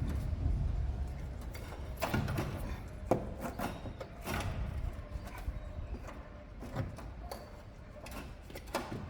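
Scattered clinks and knocks of hand tools on metal at irregular intervals, a sharp one about three seconds in, as parts of the front suspension are worked loose.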